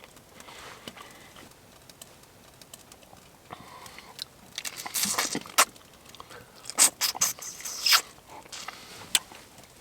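Hands breaking open and peeling a cooked whole prawn, and eating it: scattered sharp crackles and wet clicks of shell, busiest from about halfway in.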